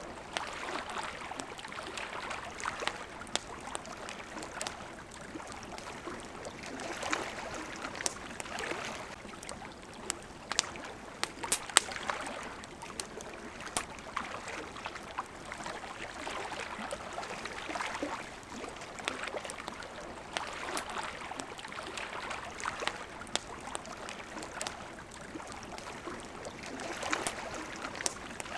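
Small waves lapping at a riverbank in slow swells every couple of seconds, with a wood campfire crackling over them in sharp pops. A cluster of louder pops comes about midway.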